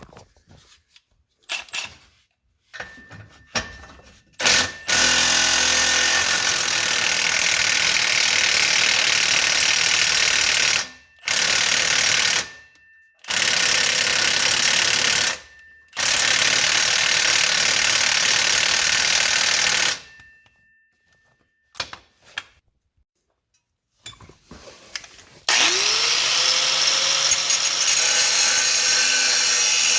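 A power tool running in loud bursts of several seconds, stopping and starting about five times. Near the end it starts up again with a rising whine.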